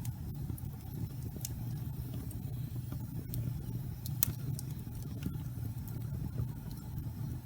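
Wood fire burning in a fireplace: a steady low rumble with scattered sharp crackles and pops from the burning logs, one louder pop about four seconds in.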